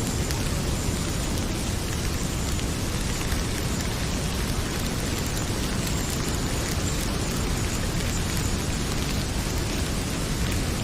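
Heavy rain pouring in a steady, even wash, with a wood fire crackling faintly beneath it in scattered small pops.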